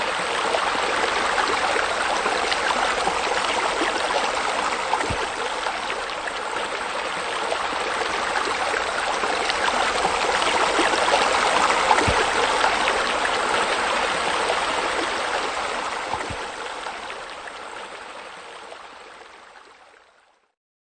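Waterfall spilling steadily into a pool, a continuous splashing rush of water that fades away over the last few seconds.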